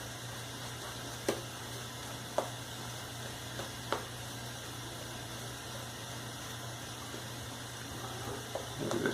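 Shaving brush swirling lather on a shaving soap puck: a soft, steady wet bubbling sound, with a few light clicks from about a second in. The soap is taking up water as a thick lather builds. A steady low hum runs underneath.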